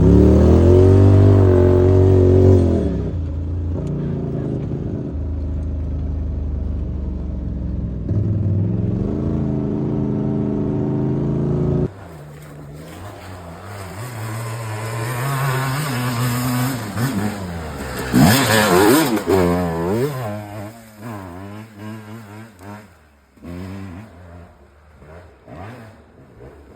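Small dirt bike engine revving up and down under load. About halfway through, an abrupt cut brings a quieter dirt bike that revs, passes close by with a quick rise and fall in pitch, and fades away.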